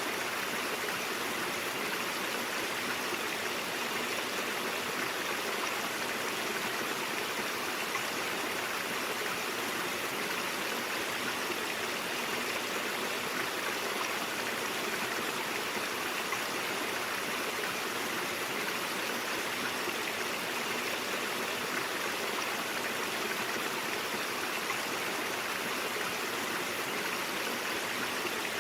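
Stream water flowing steadily over rocks, an even rushing babble with no breaks.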